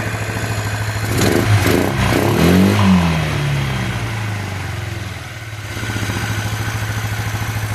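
1987 Yamaha Riva XC125 scooter's single-cylinder four-stroke engine idling, blipped once about a second and a half in, its pitch rising and then falling back to idle.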